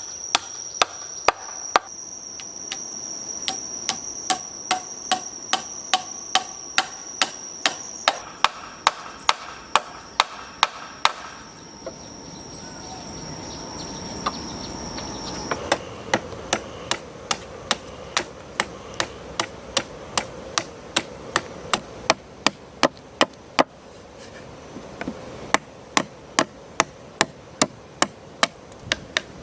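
Rapid, evenly spaced hammer strikes, about two to three a second, with a steady high whine behind them that stops about halfway through.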